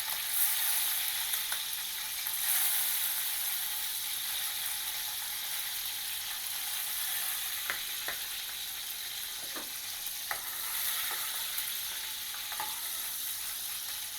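Green chillies frying in hot oil in a pan: a steady sizzling hiss, with scattered pops of spattering oil from about halfway on.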